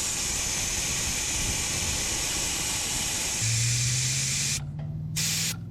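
Air rushing out of a truck tire through the open valve stem, its valve core pulled out to air down for the trail: a steady loud hiss that cuts out briefly twice near the end. A low steady hum joins about three and a half seconds in.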